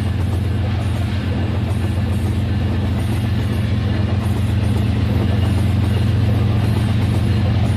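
Battery-powered Rail King toy train running on its plastic track: a steady motor hum with a fast, continuous rattle of wheels and gears, cutting off suddenly at the end.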